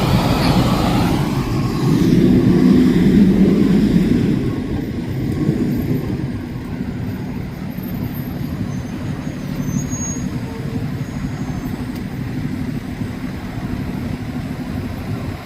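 Motor vehicle engines and road traffic running steadily, with a low rumble that swells between about two and four seconds in.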